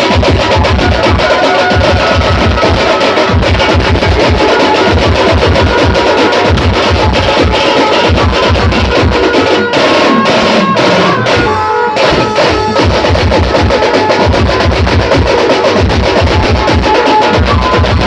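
Loud banjo-party band music: fast, heavy drumming with rolls and deep bass-drum beats under a steady melody line.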